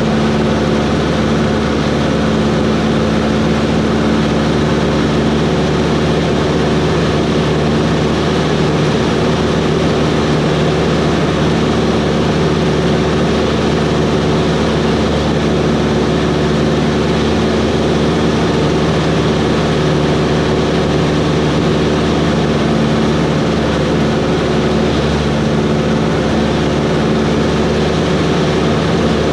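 Cessna 140's small four-cylinder Continental engine and propeller running at a steady, even power setting, with a constant hum and airflow noise.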